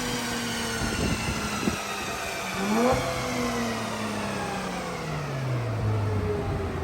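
Car engine revving twice: each time the pitch jumps up quickly, then sinks slowly as the revs come back down.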